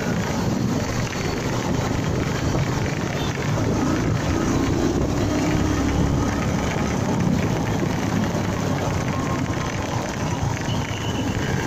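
Honda MegaPro Primus motorcycle on the move: steady wind and road noise on the microphone, with the engine running underneath.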